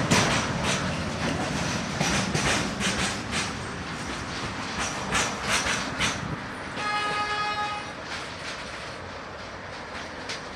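Intermodal freight train of pocket wagons loaded with semi-trailers rolling past, wheels clacking over rail joints, the clacks thinning out and the noise fading toward the end. About seven seconds in, a train horn sounds once for about a second.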